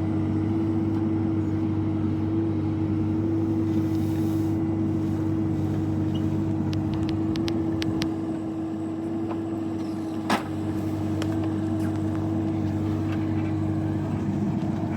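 Bobcat E26 mini excavator's diesel engine running steadily with a constant tone over it. Several light clanks of debris, then one sharp knock about ten seconds in.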